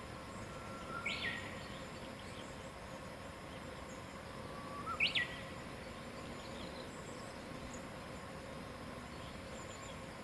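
A songbird sings twice, about a second in and again around five seconds in. Each phrase is a held low whistle followed by a quick, higher, falling flourish, and the second phrase is louder. Underneath runs a steady outdoor hiss with faint insect-like tones.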